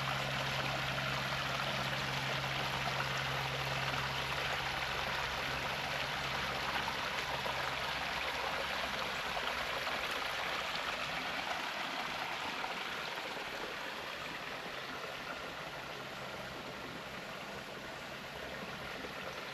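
Water of a small spring running steadily, an even rushing trickle, with a low steady hum underneath that fades out about eight seconds in.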